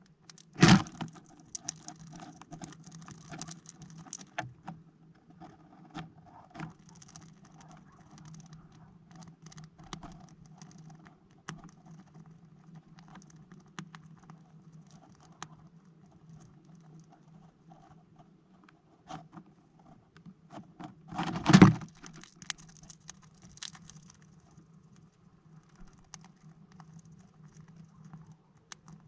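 Small birds pecking and scrabbling at seeds in a plastic-bottle bird feeder: irregular light taps and clicks, with louder bumps about a second in and again about 21 seconds in. A steady low hum runs underneath.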